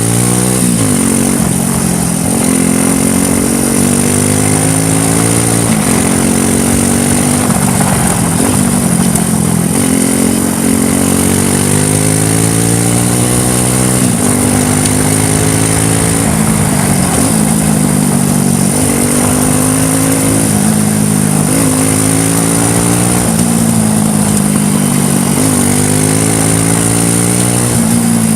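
ATV quad bike engine on a downhill ride, its revs climbing steadily and then dropping off sharply, again and again, over a constant hiss.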